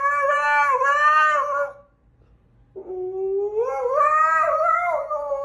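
Dog howling on command ("singing"): one long wavering howl that breaks off about a third of the way in, then after a short pause a second howl that starts low and rises in pitch.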